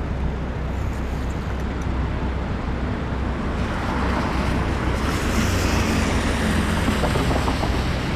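Wind rumbling on the microphone over steady traffic noise while riding an e-bike on wet city streets. From about three and a half seconds in, a louder hiss of tyres on wet pavement swells.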